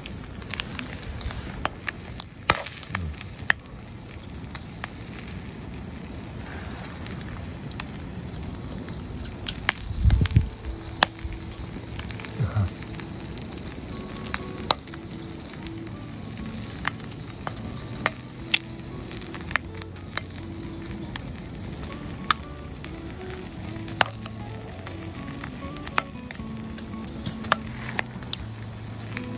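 Bacon frying over a wood fire: a steady sizzle with frequent sharp pops and crackles. A low thump comes about ten seconds in.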